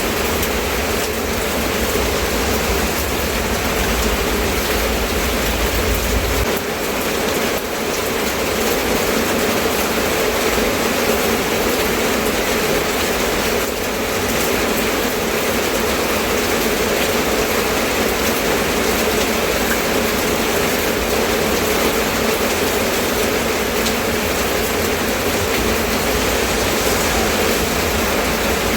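Steady rain falling, a constant even hiss. A low rumble underneath stops about six seconds in.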